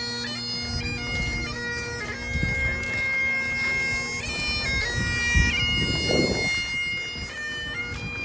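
Highland bagpipes playing a tune: the chanter steps between held notes over a steady drone. A low rumbling noise runs underneath, with a thump about five seconds in.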